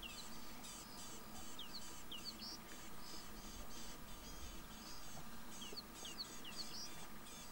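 Birds calling in the bush: a high chirp repeating about twice a second, joined twice by a quick run of short downward-sliding whistles.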